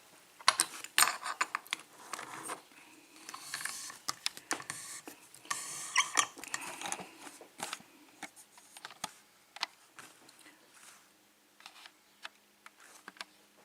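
Handling noises from a padlock and lock-picking tools: scattered small metal clicks and light scraping, with short stretches of rustling in the first half, growing sparser and quieter later.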